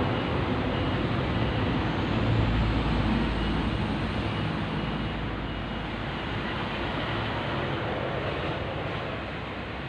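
A motor vehicle's engine rumbling nearby and slowly fading away, over a steady hiss.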